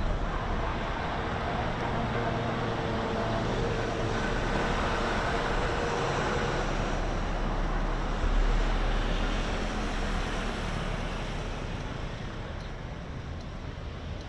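Road traffic noise: a motor vehicle passing, its engine and tyre noise swelling and then fading away over the last few seconds.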